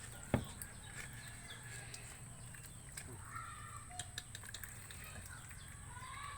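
Faint background with a few short animal calls and scattered light clicks, one sharper click about a third of a second in.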